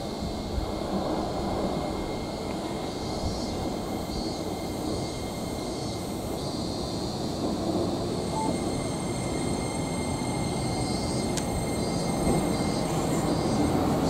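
Electric train running on the rails. The rumble grows gradually louder, with a faint thin high whine over it.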